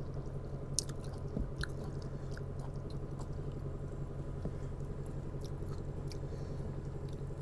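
A person chewing and eating spicy instant noodles, with small scattered wet clicks and smacks, over a steady low hum.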